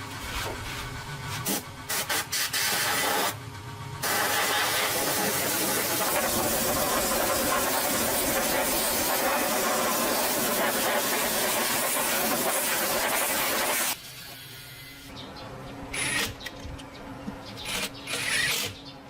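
A loud steady hiss lasting about ten seconds, with a few shorter hissing bursts before it and near the end.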